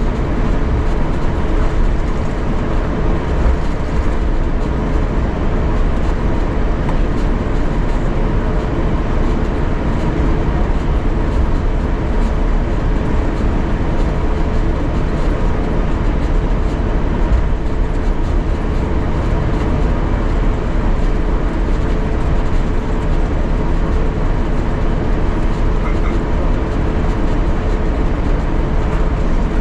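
Steady cabin noise inside an Airbus A350-900 taxiing on the ground: a low rumble under a constant two-pitch hum from its Rolls-Royce Trent XWB engines and cabin systems.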